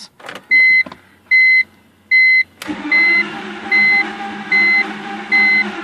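BMW E46's starter cranking the engine with the throttle held wide open after a shot of starting fluid, starting suddenly a little under three seconds in and not catching, while a dashboard warning chime beeps steadily a little more than once a second. The engine would not fire because the cylinders had been washed of oil by the cold-start fuel and had little compression.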